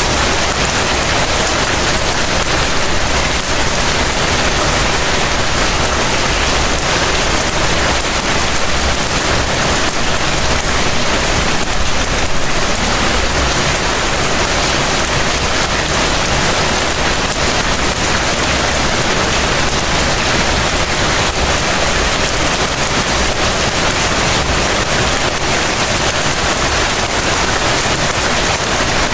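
Heavy rain falling steadily: a dense, even hiss of countless drops that holds at a constant level.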